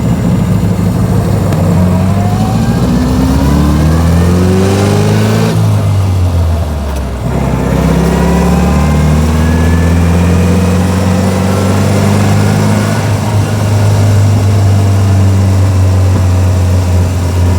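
1924 Austin Seven's small side-valve four-cylinder engine pulling the car along, heard from inside. Its pitch rises, breaks off about five and a half seconds in for a gear change on the crash gearbox, then climbs again before settling to a steady note near the end.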